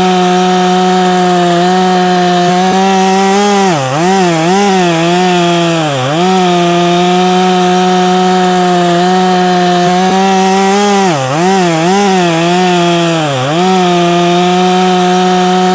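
Ported Efco 165 two-stroke chainsaw held at full throttle, cutting oak. Its high, steady pitch sags and recovers a few times as the chain is loaded in the cut.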